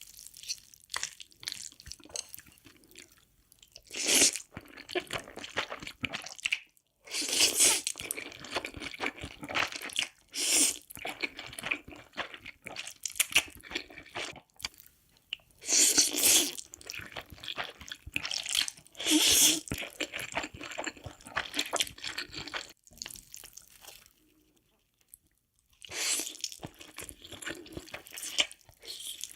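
Close-miked eating of spicy fire noodles: six loud slurps a few seconds apart, with wet chewing and small mouth clicks in between.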